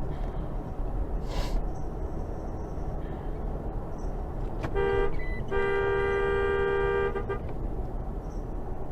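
Car horn sounding a short honk and then a longer blast of about two seconds, over steady road and engine noise.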